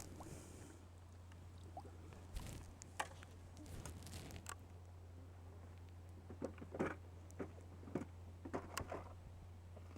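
Scattered light knocks, taps and rustles of an angler handling his tackle and a freshly landed small fish, over a steady low hum. The taps come in a few clusters, a couple of seconds in and again in the second half.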